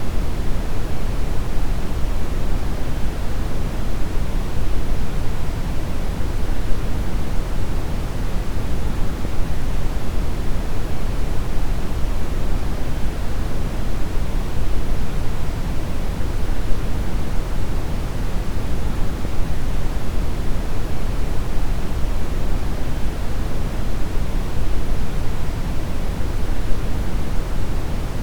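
Steady brown noise: an even, deep rushing hiss with most of its energy in the low end, unchanging throughout.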